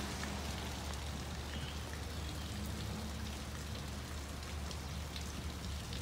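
Steady rain falling, with individual drops ticking on nearby surfaces, over a steady low hum.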